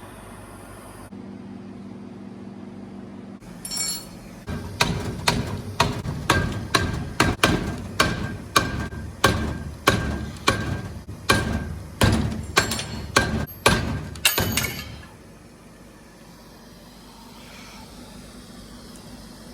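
Hammer blows on metal during engine assembly: about twenty sharp strikes at roughly two a second, unevenly spaced, each with a short metallic ring.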